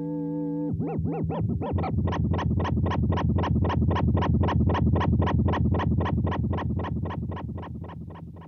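Electric guitar through a Boss DD-7 digital delay in modulate mode with the feedback turned high. A held note gives way, about a second in, to a fast train of chorusy, pitch-wobbling repeats, about five a second, which build and then die away near the end.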